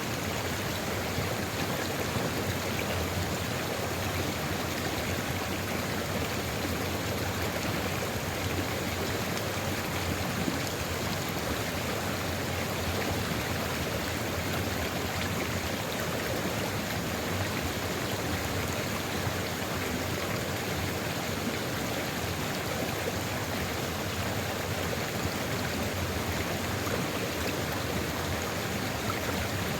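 Sulfur river water flowing steadily over its bed, a continuous even rush with no breaks.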